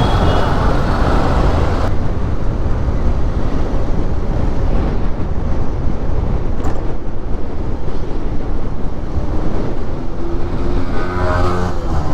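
Steady road noise of a motorbike ride through city traffic, with engine and wind noise. A pitched engine sound from a nearby vehicle comes in near the end.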